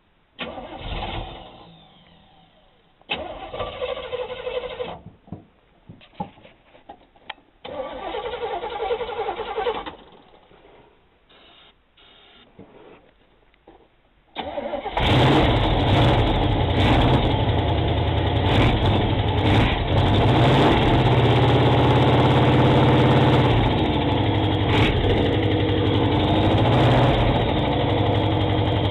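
Oldsmobile 403 V8 in a 1979 Trans Am being cranked over in three short tries, then, about fifteen seconds in, running loud and steady. This is the first start of an engine that has sat for about five years.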